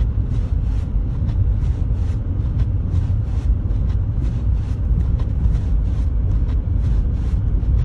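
Car driving on a snowy road, heard from inside the cabin: a steady low rumble of engine and tyres, with many short faint ticks over it.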